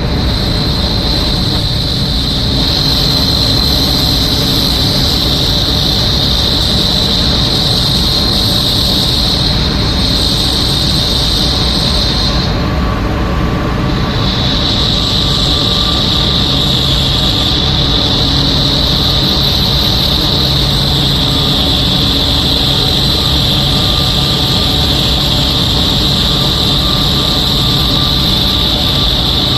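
Generating unit running with a loud, steady high-pitched whine over a constant low rumble: the abnormal noise of unit 1. The whine drops out for a second or two about twelve seconds in, then comes back.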